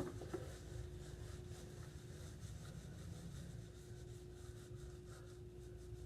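One sharp knock and a smaller tap, then faint rubbing and handling as the hair-dye container is cleaned out, over a steady low hum.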